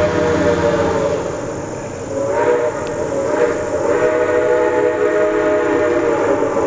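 Locomotive sounding a multi-note chime whistle in a series of blasts: a long one, two short ones, then another long one, over the rumble of the passing train.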